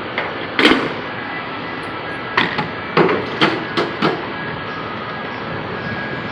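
Diesel pump nozzle and semi-truck fuel tank being handled: a series of sharp metal clacks and knocks, two near the start and a quick cluster of five a couple of seconds later, over a steady background noise.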